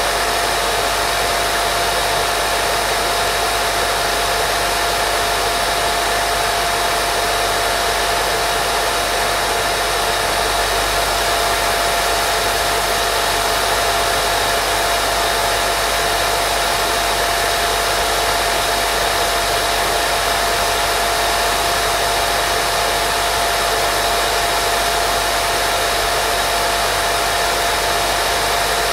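Steady white noise for baby sleep: an even, unbroken hiss weighted toward the mid and high range, with a thin steady tone running through it.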